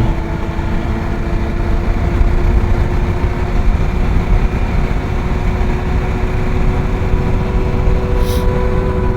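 Motorcycle engine running at steady revs while riding, with heavy wind and road rumble. There is a brief hiss near the end.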